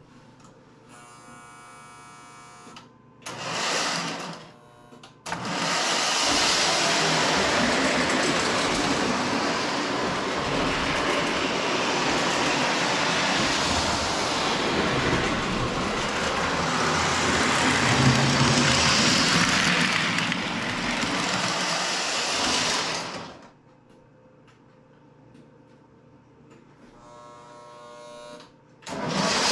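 Lionel 2023 Alco AA diesel locomotive running around the track, a steady whirring, clattering run of motor and wheels on the rails that settles down about three quarters of the way through. Its electric horn sounds briefly just after the start and again near the end.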